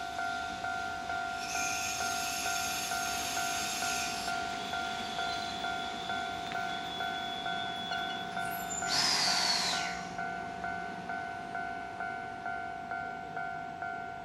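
An EF65 electric locomotive-hauled freight train running into the station while a warning bell rings steadily, about one and a half strikes a second. A high squeal sounds from about one and a half to four seconds in, and a short hiss comes about nine seconds in.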